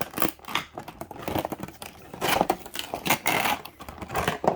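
Packaging rustling and crinkling, with scrapes and clicks, as the parts of a model airplane are handled and unwrapped.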